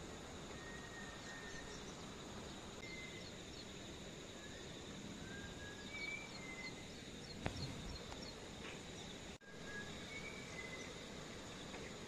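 A bird gives short, clear whistled notes, singly or in pairs at irregular intervals, over a steady high drone of insects. The whole is faint.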